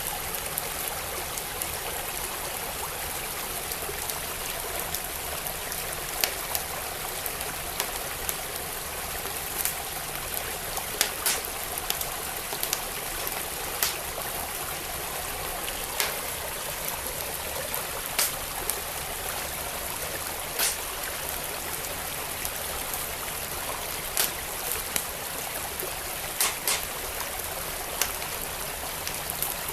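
A creek flowing steadily, with the sharp, irregular pops and crackles of a wood fire in a fireplace coming every second or two.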